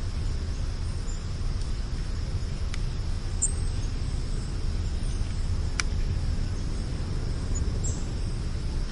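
Outdoor ambience: a steady low rumble with a few faint, short high bird chirps and a thin steady high hum, and one sharp click about six seconds in.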